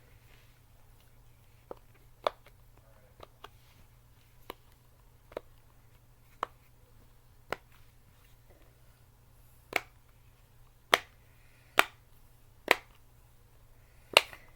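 Simple Dimple fidget toy being pressed, its silicone bubbles popping in single sharp clicks, about one a second and unevenly spaced. The pops get louder about ten seconds in.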